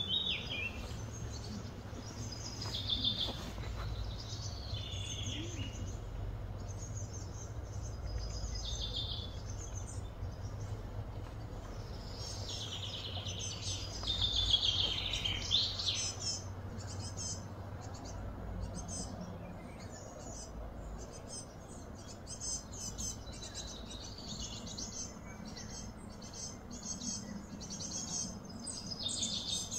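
Birds chirping and calling repeatedly, with a louder run of calls about halfway through, over a steady low background hum.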